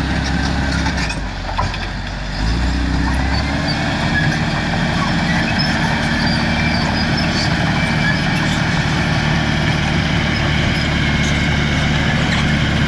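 Caterpillar D5 wide track bulldozer's diesel engine running steadily; it drops back briefly about a second in and picks up again after about two and a half seconds.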